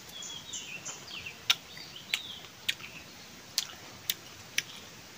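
Small birds chirping and twittering in high, falling notes over the first second and a half, then six sharp clicks spread through the rest, the loudest about a second and a half in.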